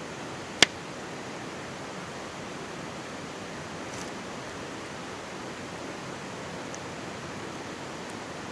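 Mountain stream babbling steadily beside a wood campfire, with one sharp, loud pop from the burning wood about half a second in and a few faint crackles later.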